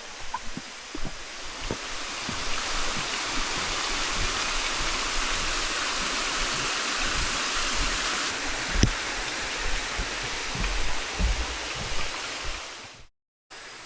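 Steady hiss of rushing water from a waterfall cascade, with scattered low thumps over it. The sound cuts out for a moment near the end.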